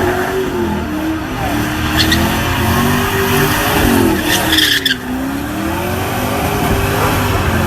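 Car doing a burnout: tyres squealing steadily while the engine revs up and down, with a brief dip about five seconds in.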